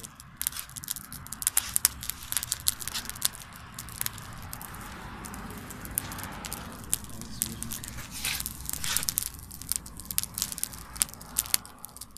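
Wood bonfire crackling, with many irregular sharp pops and snaps from the burning wood.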